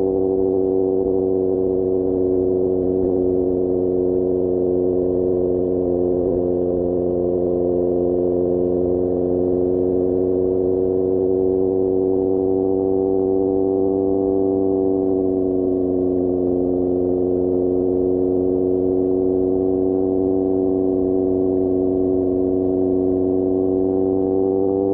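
QJMotor SRK600 inline-four engine through a Pure Austin Racing GP1R exhaust, running at a steady cruise with a constant, even note. The pitch sags a little about two-thirds of the way through and climbs slightly again near the end.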